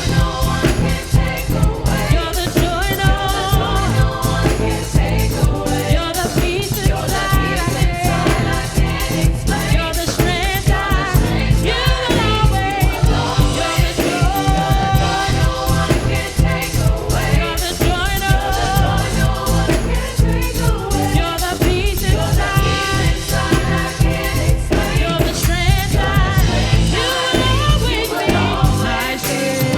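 Worship band music: a group of singers over a steady drum beat and backing instruments, in a gospel-style song.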